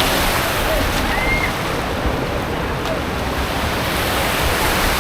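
Steady rushing of water pouring over a waterfall, with a few faint, distant shouts of people.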